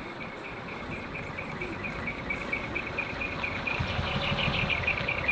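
Rapid, steady high-pitched chirping, about six or seven pulses a second, over a vehicle engine's low rumble that grows louder in the last couple of seconds as the vehicle draws closer.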